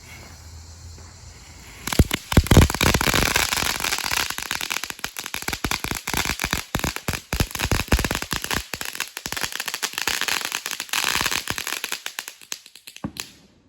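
Consumer ground firework lit about two seconds in, spraying with dense, loud crackling for about eleven seconds before thinning out and stopping. A loud boom from a separate firework lands near the start of the crackling.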